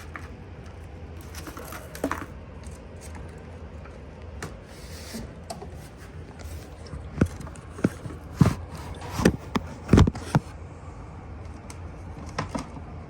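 Handling noises while a snake is fed: scattered sharp clicks and knocks, with a cluster of louder knocks about seven to ten seconds in, over a steady low hum.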